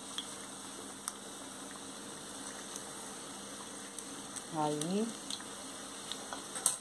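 Pastéis frying in hot oil in a pan: a steady sizzle with scattered small crackles and pops, and one sharp click near the end.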